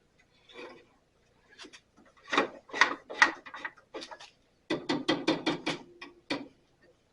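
Hands working on a Craftsman 12-inch bandsaw's blade and wheels during tracking and tension adjustment: a quick run of short knocks, clicks and scrapes, in two bursts about two and five seconds in.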